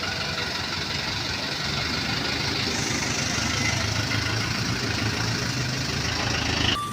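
Truck engine running steadily at idle, slightly louder through the middle, cutting off abruptly near the end.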